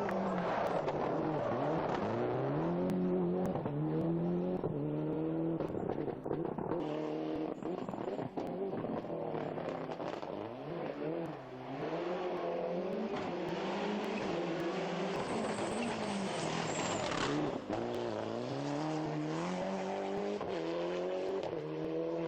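A rally car's turbocharged engine revving hard through a run of gear changes and throttle lifts. Its pitch climbs and drops back many times over. A rush of tyre and road noise swells in the middle and cuts off suddenly.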